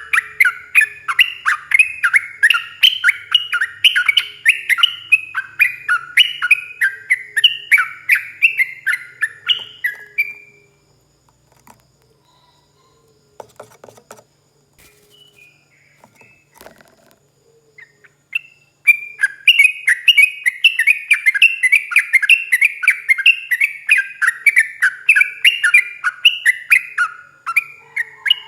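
Yellow-vented bulbul (trucuk) singing its rapid 'ropel' song, a fast unbroken string of short notes. The bird breaks off about ten seconds in and is nearly quiet for about eight seconds, apart from a few faint notes, then takes up the fast string again.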